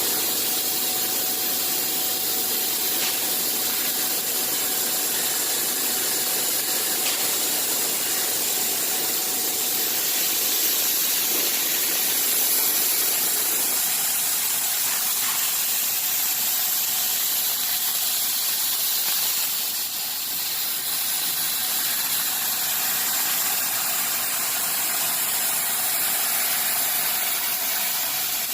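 Bystronic CNC machine running: a steady hiss over machine noise, with a faint constant tone. About halfway through, the lower, rumbling part of the noise drops away and the hiss carries on.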